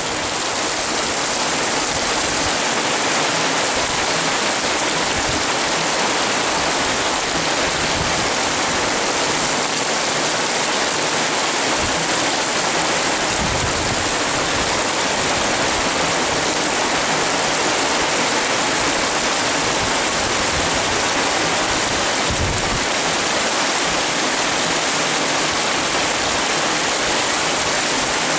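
Heavy rain pouring down in a steady, loud hiss, with now and then a low thud.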